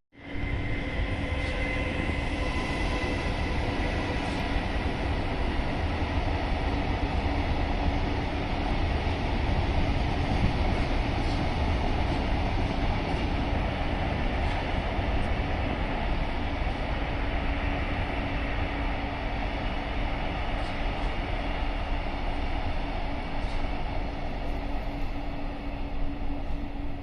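Freight train rolling past at speed: a steady rumble of wagon wheels on the rails, with a steady tone underneath.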